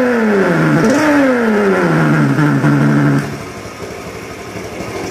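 Electronic motorcycle sound booster playing a simulated big-bike engine note: two revs that sweep up and fall back, then a steady idle-like hum that cuts off about three seconds in, leaving the bike's own quieter running.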